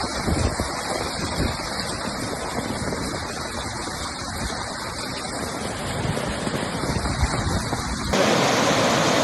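Rushing floodwater with wind buffeting the microphone in low rumbling gusts. About eight seconds in the sound changes abruptly to a steadier, hissier rush of water.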